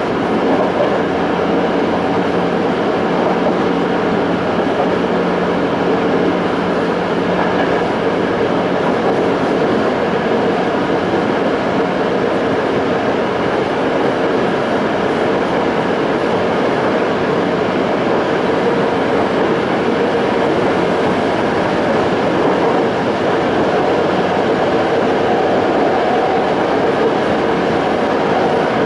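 Running noise of a Toei 5300-series EMU with Mitsubishi GTO-VVVF inverters, cruising at speed: a steady rumble of wheels on rail and car body. A low steady tone sounds for the first few seconds, then fades into the rumble.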